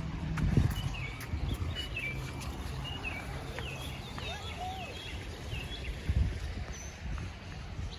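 Birds chirping: a quick series of short, falling chirps that thins out after the first few seconds, over a steady low rumble.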